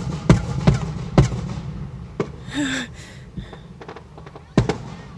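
Aerial fireworks shells bursting: a rapid run of four bangs in the first second or so, then two more spaced out, the last near the end, with a low rumble under them.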